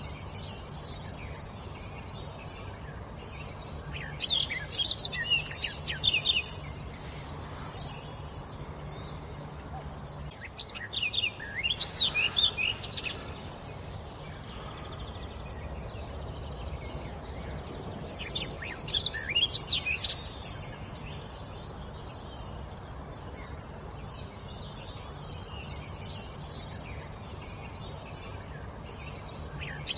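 A songbird singing three short phrases of quick, high chirping notes, each a few seconds long and several seconds apart, over a steady background hiss.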